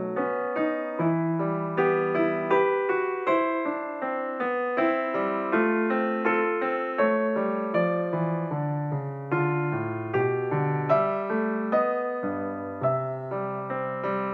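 Background music: a gentle piano or electric piano piece played in steady, evenly paced notes.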